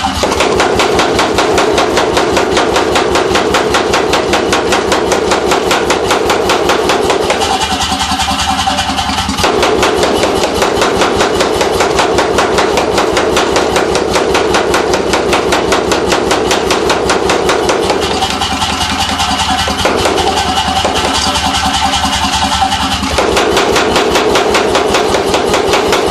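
C41-series pneumatic forging hammer (air hammer) running, its ram striking in a rapid, even rhythm over the steady hum of its motor and air compressor. The tone shifts briefly twice.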